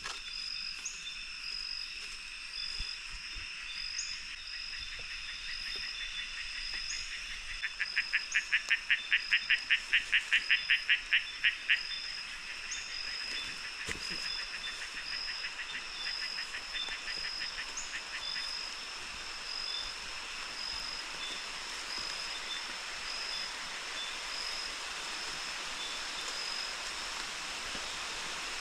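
Rainforest night chorus: an animal call of rapid pulses, about four a second, from about eight to twelve seconds in, over steady high-pitched insect trilling, with a hiss of rain building through the second half.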